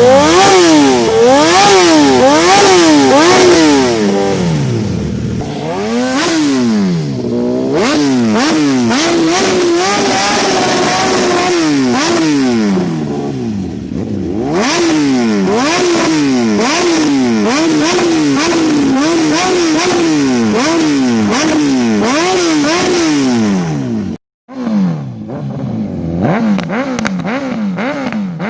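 Superbike engine revving hard, its pitch climbing and falling over and over, about once or twice a second. Near the end the sound cuts out for a moment and comes back as a duller engine sound.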